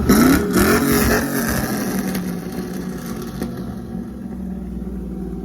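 Car or truck engine with a big exhaust revving, its pitch rising in the first second, then easing off to a steadier, quieter low rumble.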